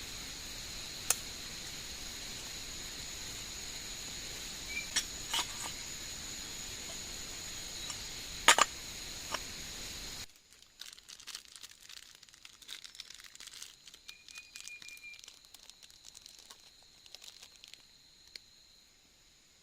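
Insects buzzing steadily in two high-pitched tones, broken by a few sharp clicks. About halfway through the sound cuts away to faint, irregular crackling and crinkling.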